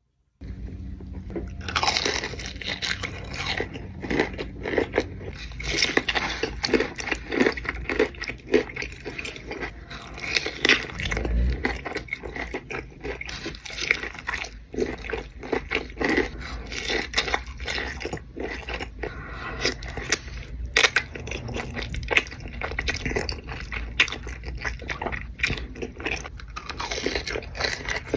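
A person biting and chewing crunchy food close to the microphone: a dense, irregular run of crisp crunches starting about half a second in.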